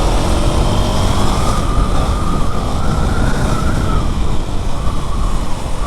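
KTM Duke 390 single-cylinder engine running while riding, under heavy wind rumble on the microphone, with a faint wavering whine from about a second in.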